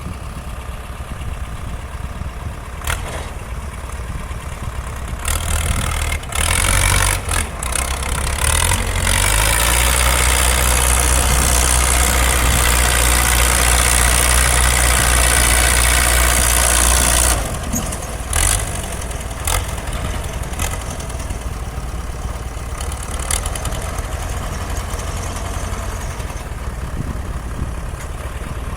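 Hanomag 75 tractor's swapped-in Chevrolet Cimarrón four-cylinder diesel (a Bedford six cut down to four) running at low revs, then revved up about five seconds in and held hard and steady for about eight seconds, as under the heavy pull of a 6-tonne load, before dropping back to low revs.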